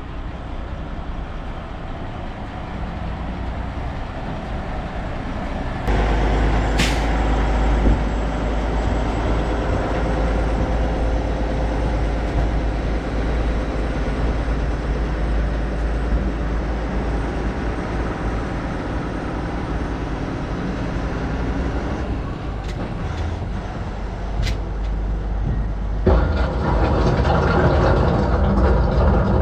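Heavily loaded diesel dump truck's engine running, growing louder about six seconds in as it pulls under load, with a short air hiss just after.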